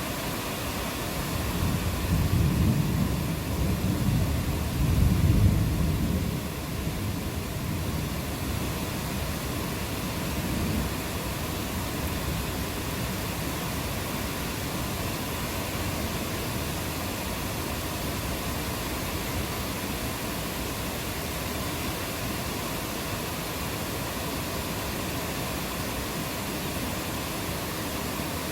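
Steady rainfall with a roll of thunder that swells in the first few seconds, peaks about five seconds in and fades by about six and a half seconds; after it only the even hiss of rain remains.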